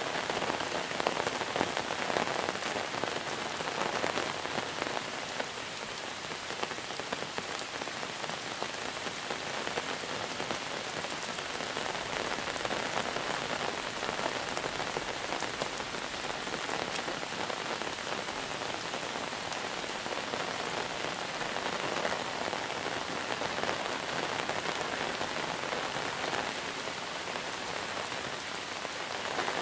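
Monsoon rain falling steadily, a constant hiss of rain on surfaces with many individual drop hits throughout.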